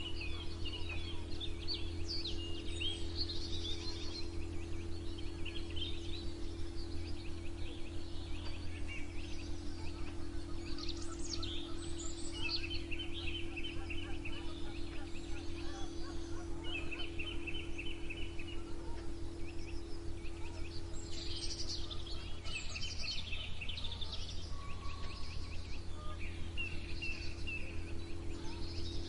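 A chorus of several songbirds singing and calling, with quick chirps and repeated dry trills overlapping. Beneath the birds runs a steady low hum.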